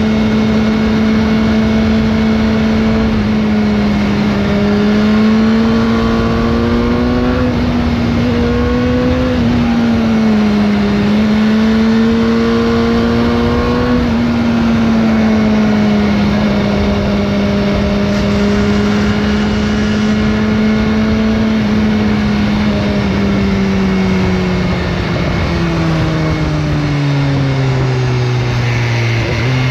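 BMW S1000R inline-four engine through its stock exhaust, running under way at fairly steady revs. The pitch rises and dips a little with the throttle, then falls steadily near the end as the bike slows.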